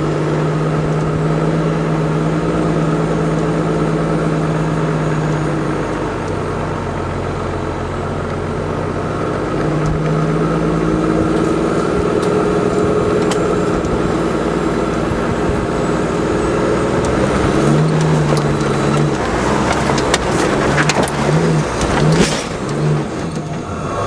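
Off-road 4x4 engine running steadily, its pitch shifting a couple of times, then revved in several short bursts over the last several seconds, with a few sharp knocks among them.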